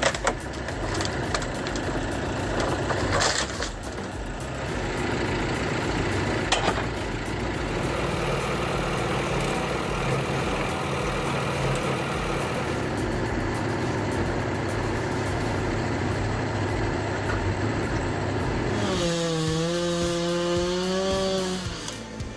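Heavy forestry machinery running while working wood, with a couple of sharp cracks. Near the end a wavering pitched tone joins for about two seconds.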